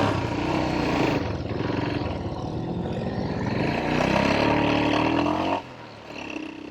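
Modified Royal Enfield Himalayan single-cylinder engine pulling hard under acceleration, mixed with wind rush. Its note rises as it revs up, then falls away sharply about five and a half seconds in.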